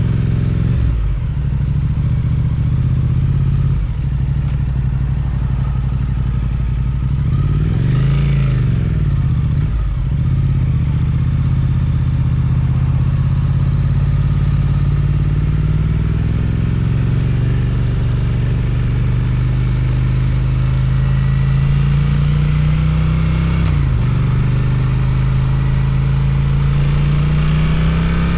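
Suzuki twin-cylinder motorcycle engine with an Akrapovic exhaust, heard under way: it rises and falls briefly about eight seconds in, then pulls through a long steady rise in revs, drops sharply for a gear change after about 24 seconds and climbs again.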